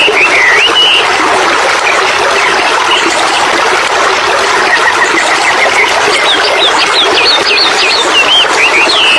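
Steady rushing water with a songbird singing over it: a run of quick chirping whistles in the first second, and again from about six seconds in.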